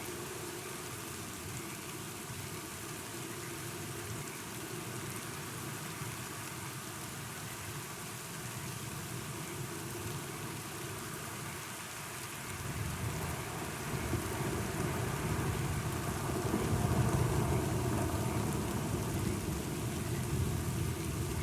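Steady rain falling, with a low rumble of thunder that builds a little past halfway and rolls on, loudest near the three-quarter mark.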